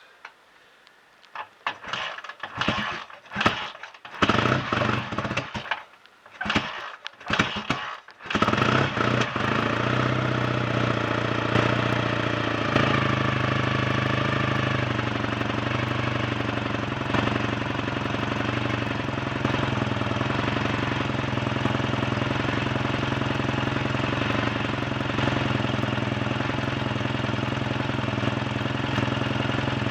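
BSA A65 Thunderbolt 650 cc parallel-twin engine being started for the first time after a full rebuild. It fires in short, uneven bursts for several seconds, then catches about eight seconds in and settles into a steady run. Its ignition timing is only roughly set by eye, and the owner finds it a bit retarded.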